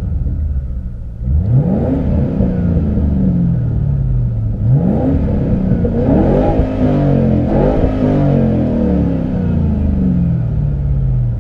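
Ford Mustang GT's 4.6-litre V8 being revved through a Roush Extreme Performance catback exhaust, heard from inside the cabin with the doors closed. It rises sharply about a second in, again near the middle, then a quick run of blips, each falling back slowly toward idle.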